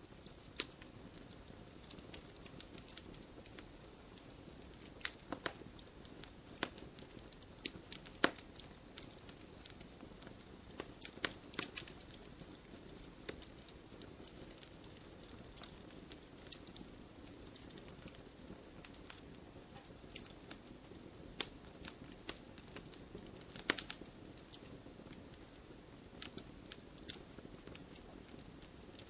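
Campfire burning with a steady low rush, crackling and popping at irregular intervals, with a few louder sharp pops among the small ticks.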